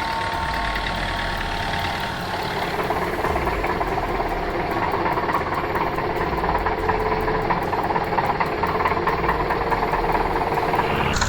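Tractor engine running steadily with an even chugging beat, a little louder from about two seconds in.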